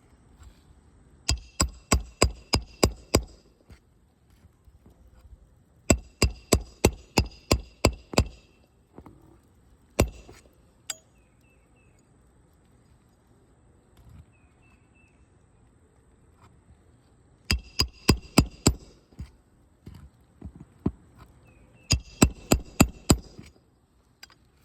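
Roofing hammer driving roofing nails into a shingle roof, with sharp ringing strikes. They come in four quick runs of about seven blows each at roughly three a second, with a couple of single blows about ten seconds in.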